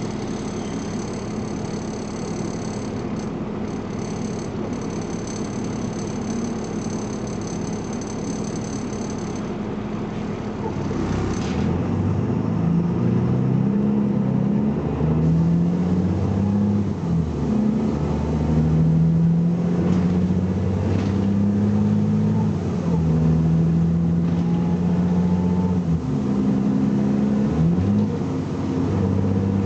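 BMC Belde 220-SLF city bus diesel engine idling steadily, then, about eleven seconds in, pulling away hard: the engine pitch climbs, drops and climbs again several times as the automatic gearbox shifts up under acceleration.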